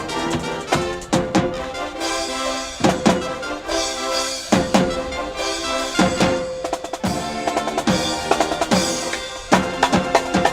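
A brass band playing: held brass chords over a beat of snare and bass drum strikes.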